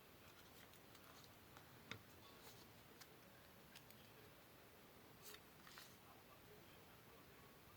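Near silence broken by a few faint clicks and short rustles of paper being cut and handled: the sharpest click comes about two seconds in, and two brief rustles come a little past the middle.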